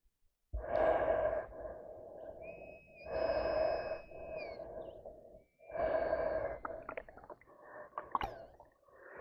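A person breathing heavily: three loud breaths about two and a half seconds apart, the middle one carrying a thin whistle, with a few small clicks near the end.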